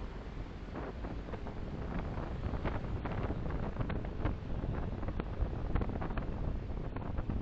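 A moving car heard through a dashcam microphone: a steady low rumble of road and engine noise, with irregular short knocks and rattles scattered through it that grow a little louder after about two seconds.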